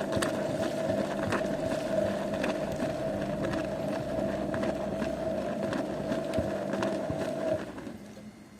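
Zanussi washing machine running, a steady hum with a noisy rush and scattered clicks, which cuts off about seven and a half seconds in.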